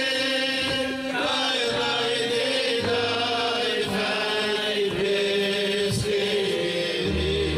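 Male voices singing a Chassidic melody together, with long held notes over a band's keyboard and bass accompaniment.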